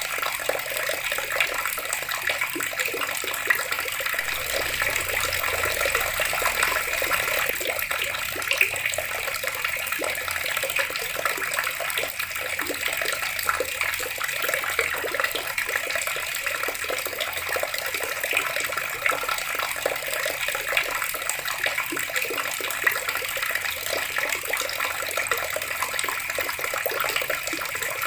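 Water running steadily from a tap, splashing continuously with small, quick spatters.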